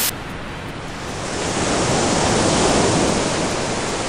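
A loud, steady rushing noise with no distinct pitch. It swells to a peak about halfway through, then slowly eases off.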